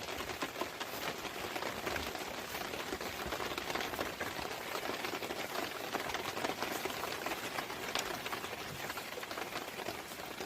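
Steady rain: a dense patter of many small drops on a surface, with no break or change.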